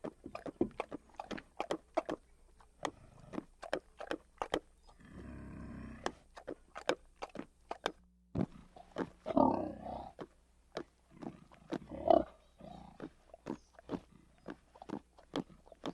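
An animal giving a few low grunts, about five, nine and twelve seconds in, amid many quick, sharp clicking sounds.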